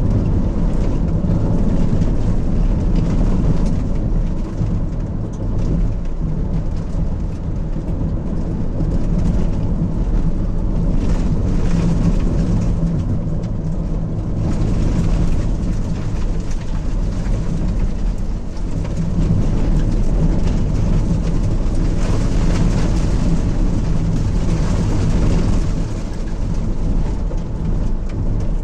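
Car driving over a rough, potholed asphalt road: a steady low engine and tyre rumble with road noise rising and falling as the surface changes.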